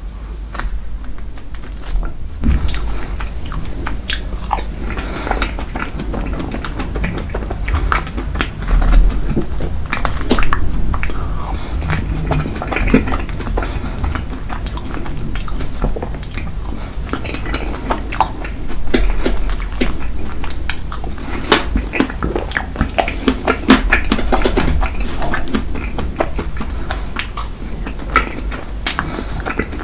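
Eating sounds: chewing and biting into dessert, with cutlery repeatedly clinking and scraping against dishes.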